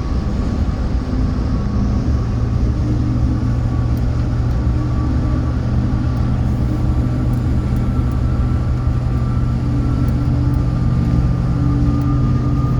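Car driving at steady speed on a highway: a constant low rumble of engine and road noise with a steady hum.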